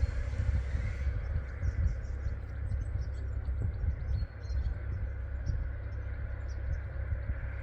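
Outdoor ambience: a steady, unevenly fluctuating low rumble, with faint high chirps coming in from about a second in.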